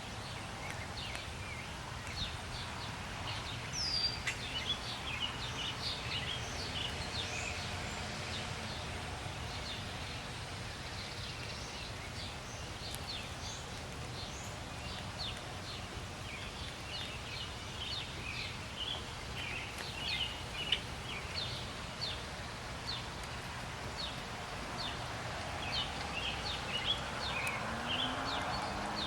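Small birds chirping and twittering in many quick, short calls, over a steady low background rumble.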